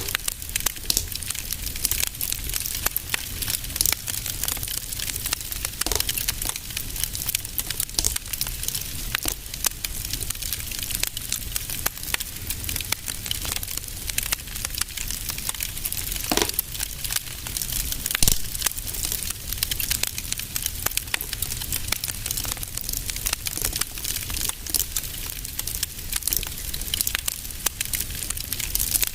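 Wood fire in a fireplace crackling, a dense irregular run of small pops and snaps over a low rumble, with one louder pop about two-thirds of the way through.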